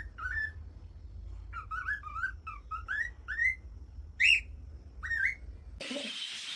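Parrot whistling a run of short, rising notes, roughly two a second, with one higher, louder note past the middle. Near the end the sound cuts abruptly to a steady hiss of background noise.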